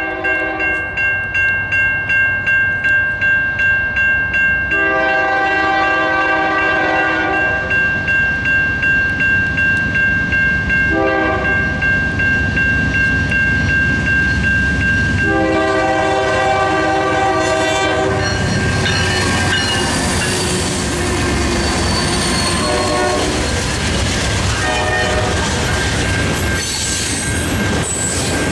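A grade-crossing bell rings steadily while a GE C44-9W diesel locomotive's horn sounds the crossing signal: the tail of one blast at the start, then a long blast, a short one and a long one. About 18 seconds in the locomotives pass with a heavy diesel rumble, then coal hopper cars roll by with wheels clattering over the rail joints.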